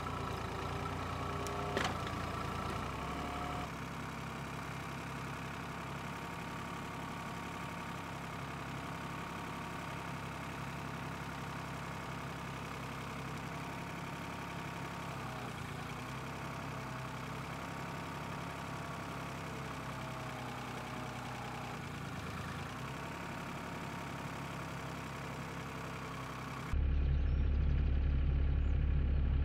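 Excavator's diesel engine running steadily, with a single sharp knock about two seconds in. Near the end the sound jumps suddenly to a louder, deeper engine rumble.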